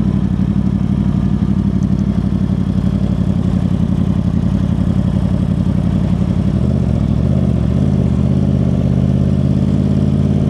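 Motorcycle engine running steadily at low revs while riding slowly; the engine note changes about six and a half seconds in.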